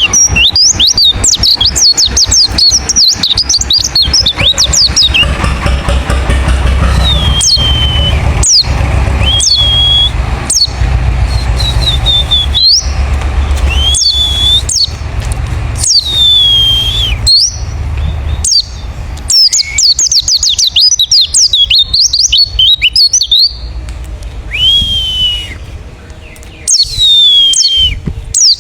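White-eyes (pleci ngalas) singing: bursts of rapid high twittering alternate with single slurred whistles that drop and then hold, repeated many times. A low rumble and crackle run underneath.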